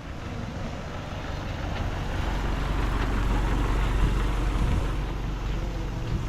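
Heavy diesel engine of earthmoving machinery running steadily, with a low engine hum under broad mechanical noise that grows slightly louder about two seconds in.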